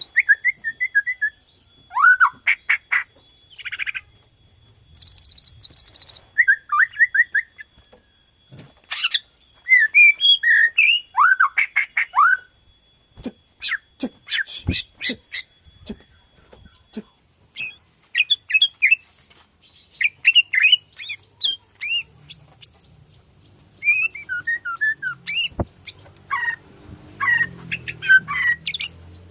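Borneo white-rumped shama (murai batu) in full song: a run of varied short phrases of clear whistles, quick trills and rapid dry clicking rattles, each broken off by a brief pause.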